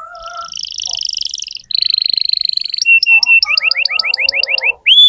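Domestic canary singing in quick changing phrases: a fast rolling trill, then a buzzy held phrase, then a run of rising whistled notes at about eight a second.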